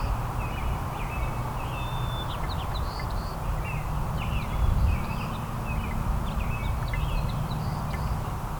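Small songbirds chirping busily, many short calls overlapping, over a steady low rumble.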